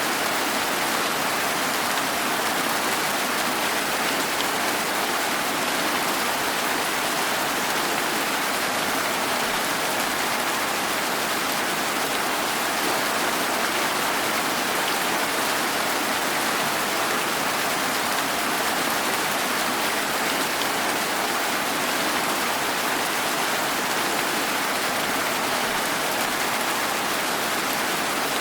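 Steady rain falling, an even hiss of many drops with no distinct individual impacts or thunder.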